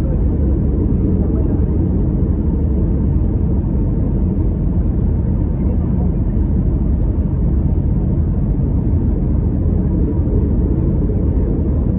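Steady low rumble of an Airbus A321neo airliner heard inside the passenger cabin: engine and airflow noise that holds level, with no changes in pitch or loudness.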